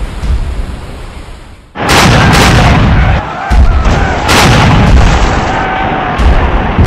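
Sea ambience of waves and wind, then about two seconds in a rapid series of loud cannon shots and explosions from a naval battle.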